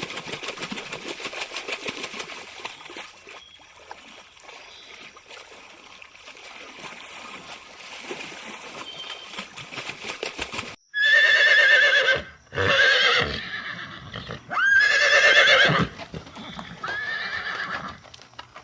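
A horse whinnying four times, loud wavering calls with a quavering pitch, starting suddenly about eleven seconds in. Before that there is a steady noisy background with rapid faint ticks.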